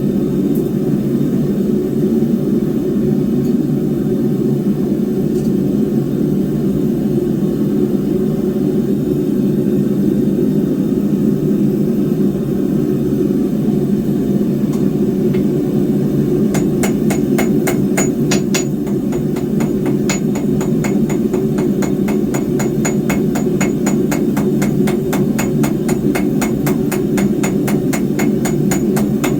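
Forging hammer striking a hot 3/8-inch square steel bar on an anvil: rapid, evenly paced blows with a bright ring, starting a little past halfway through. Under it, a forge's steady low roar.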